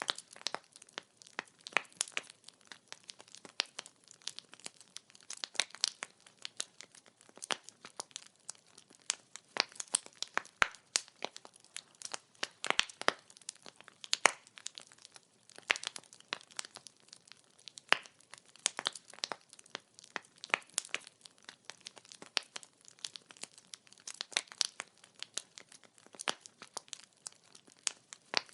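Wood fire crackling: burning logs giving off dense, irregular sharp pops and snaps over a faint hiss.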